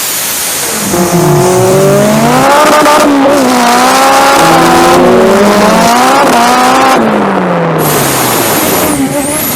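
Turbocharged Honda four-cylinder accelerating hard: the engine note climbs, drops back sharply twice as at gear changes, then falls away as the car comes off the throttle near the end.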